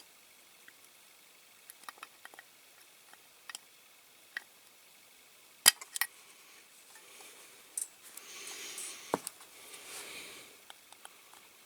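Small scattered clicks and taps of hands working the parts of a diecast toy tractor, pushing stiff metal levers through the driver figure, with one sharper click about six seconds in. Near the end comes a few seconds of rustling and scraping with a single knock.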